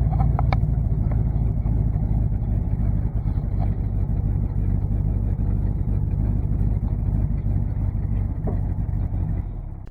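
C50 dump truck's engine running with a steady low rumble as the truck drives forward under its own power; the sound fades out near the end.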